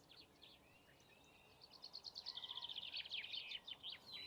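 Faint small birds chirping in quick runs of short, high notes, starting about one and a half seconds in after a near-silent start.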